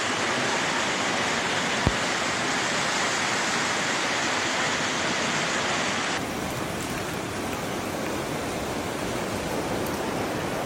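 Fast-flowing floodwater rushing steadily, with a single sharp click about two seconds in. About six seconds in, the sound cuts to a slightly quieter stretch of the same rush.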